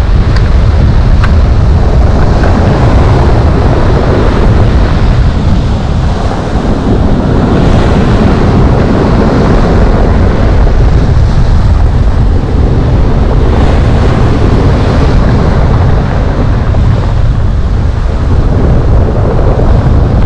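Heavy sea surf breaking on the shore under a hurricane-force wind that rumbles loudly on the microphone. The waves surge and fall back several times.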